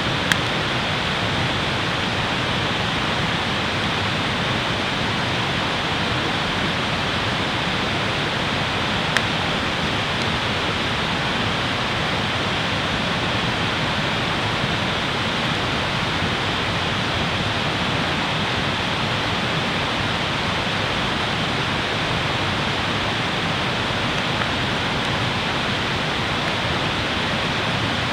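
A steady rushing noise that stays level throughout, with one sharp click near the start and another about nine seconds in.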